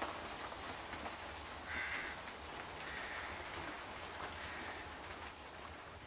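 A bird gives three short, harsh calls a second or so apart over a low steady rumble.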